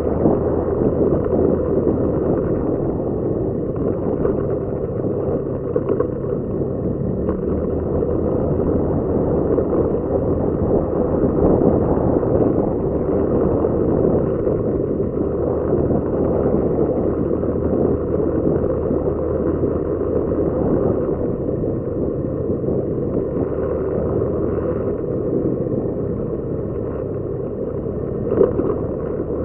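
Motorcycle on the move: a steady engine note under a low rumble of wind on the microphone, its pitch shifting now and then. There is a brief louder knock near the end.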